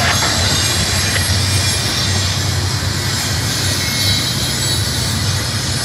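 Double-stack intermodal train's loaded container well cars rolling past, a steady rumble of steel wheels on the rails.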